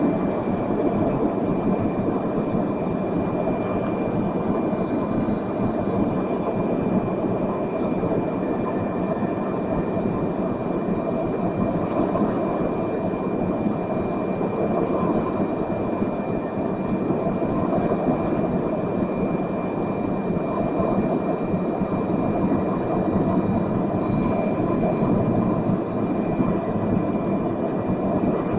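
Steady jet airliner engine and airflow noise heard inside the passenger cabin, with a faint constant high whine above it.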